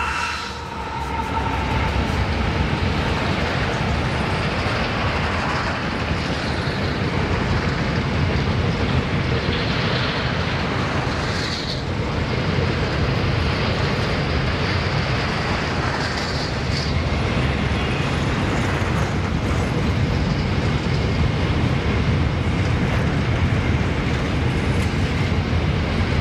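A long freight train of grain hopper wagons rolling steadily past on a curve: a continuous rumble and clatter of wheels on rail, with a brief high wheel squeal now and then. The last of a locomotive horn note dies away just at the start.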